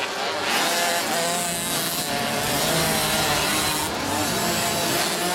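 Small 50cc automatic motocross minibikes' two-stroke engines buzzing on the track, their pitch wavering up and down as the throttles open and close.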